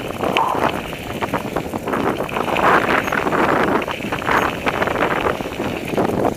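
Wind buffeting the microphone over a mountain bike rolling on a dirt trail, with continuous crunching and rattling and many small clicks.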